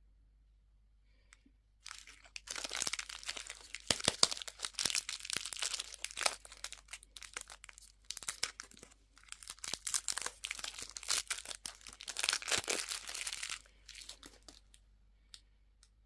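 Crinkly candy wrapping being handled and torn open by hand: a dense crackling that starts about two seconds in, with sharp clicks, easing off and stopping shortly before the end.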